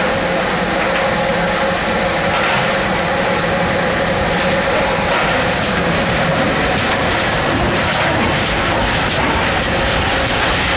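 A GWR steam tank engine and its coaches running past on the next track close by, a loud, steady noise of wheels and coaches on the rails.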